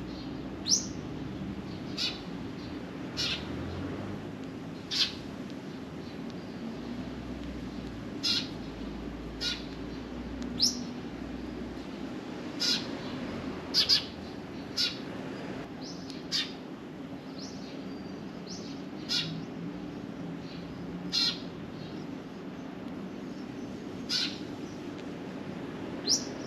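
Sparrows chirping: short, sharp single chirps repeated irregularly, about one every second or two, over a steady low background hum.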